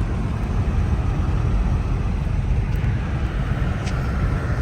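Car driving at speed, heard from inside the cabin: a steady low rumble of engine, exhaust and road noise. The owner blames the odd sound on the exhaust system, after running over a deer left debris stuck under it.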